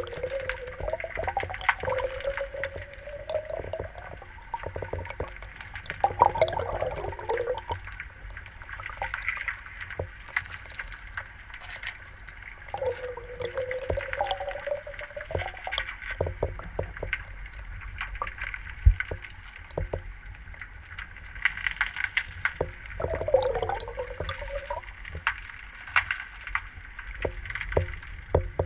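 River water rushing and gurgling, with many small clicks and knocks throughout. A wavering tone comes and goes four times, each lasting a couple of seconds.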